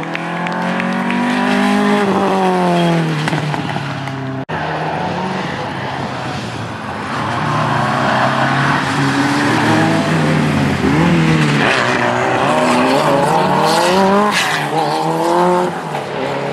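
Group B rally car engines revving hard, their pitch climbing and dropping again and again through gear changes as the cars drive past. About four and a half seconds in, a sudden cut switches to another car.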